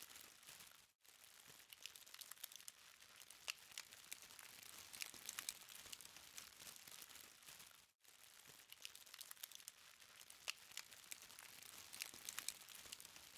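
Burning charcoal crackling faintly: a steady run of small sharp ticks and snaps over a soft hiss. The sound cuts out briefly twice, about seven seconds apart.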